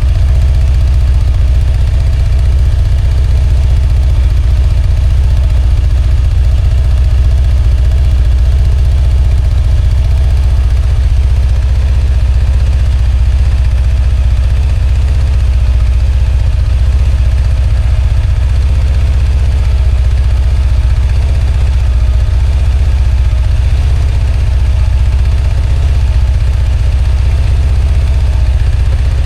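Kawasaki ZZR1100 motorcycle's inline-four engine idling steadily.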